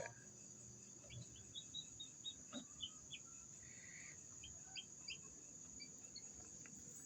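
Faint peeping of newly hatched chicks in an incubator: a run of short, high cheeps, several a second.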